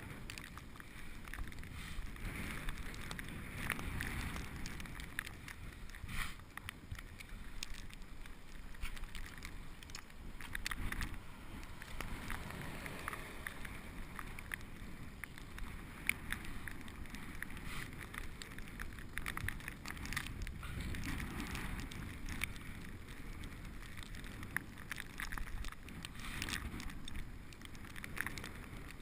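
Bicycle riding on a snowy street: a steady rumble of tyres on the road with occasional short clicks and rattles from the bike.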